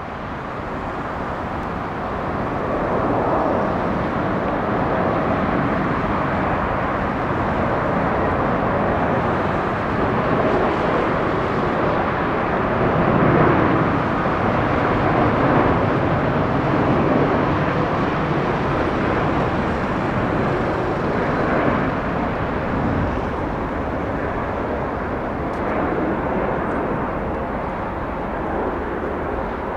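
Boeing 777-200 airliner's twin jet engines as it comes in to land: a steady jet rumble that builds over the first few seconds, is loudest about halfway through, then slowly eases off.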